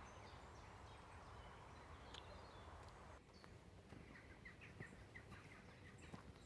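Faint outdoor ambience with small birds chirping in the distance, and a quick run of short chirps about four seconds in.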